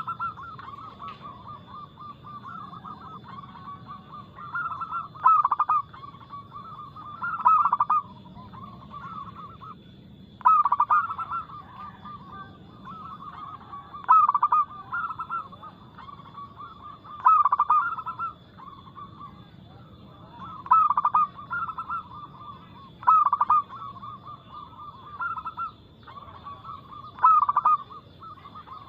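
Zebra dove (perkutut) cooing, its rhythmic song phrases repeating about every two to four seconds with softer cooing between. A faint steady high whine runs underneath.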